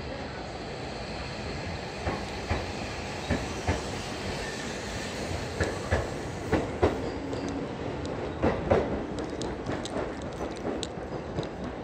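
Seibu 40000 series electric train pulling out of the platform and running past, its wheels clacking over rail joints in paired knocks over a steady rumble. The rumble eases near the end as the last car leaves.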